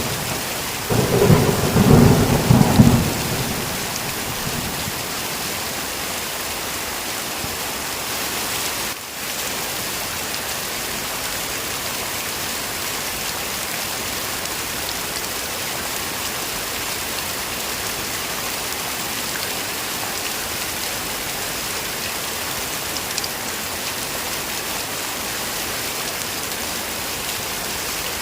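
Heavy rain falling steadily, with a thunder rumble about a second in that dies away within a few seconds. The rain then runs on evenly, with a brief dip in level about nine seconds in.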